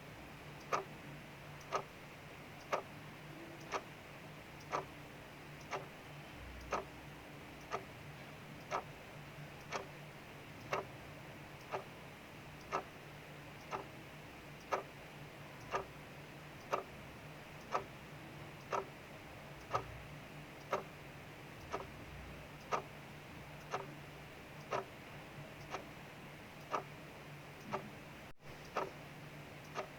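Mechanical clock ticking steadily, about one tick a second, over a faint steady hiss of rain outside and a low hum.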